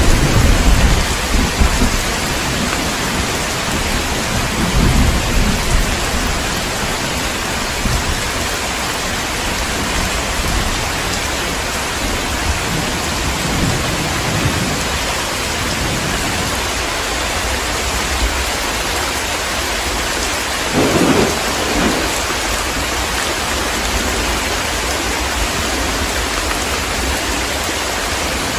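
Heavy, steady rain in a thunderstorm, with rolls of thunder: a loud deep rumble right at the start, fainter rumbles around five and thirteen seconds in, and a sharper crack of thunder about twenty-one seconds in.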